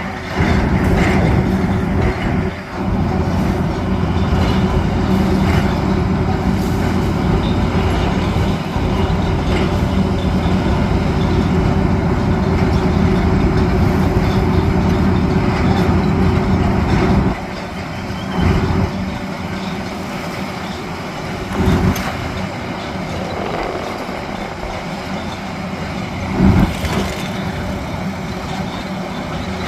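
Heavy drill rig running loudly and steadily. About 17 seconds in it drops to a quieter run, with a few sharp knocks later on.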